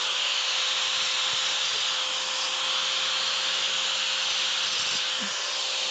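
Angle grinder with a cutting disc running at full speed and cutting into a steel wheel rim: a steady motor whine under a loud, harsh hiss of disc on metal, its gearbox freshly greased.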